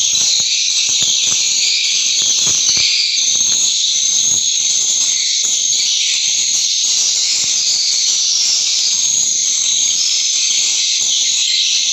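Swiftlet calls: a dense, continuous, high-pitched twittering chorus, the sound swiftlet houses are built around.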